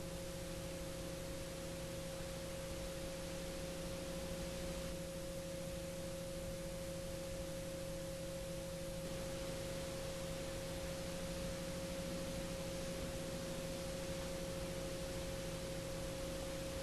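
Steady hum of a few fixed tones over a constant hiss, unchanging throughout.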